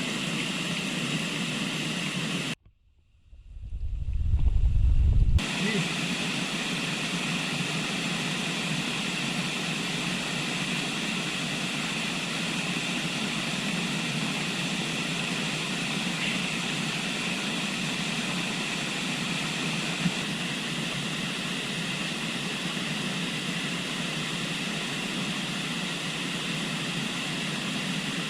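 River water rushing steadily. About two and a half seconds in, the rushing cuts out abruptly and a louder low rumble takes over for a few seconds, then the steady rushing returns.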